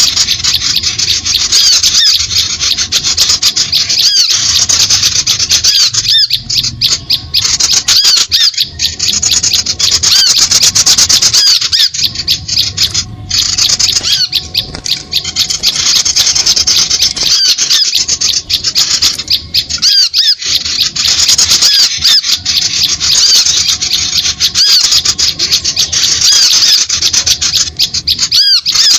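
Lure recording of many small birds chattering and squawking at once: a dense, loud stream of rapid high chirps and squeaky calls with only brief breaks, the agitated flock noise used to draw small birds onto glue sticks.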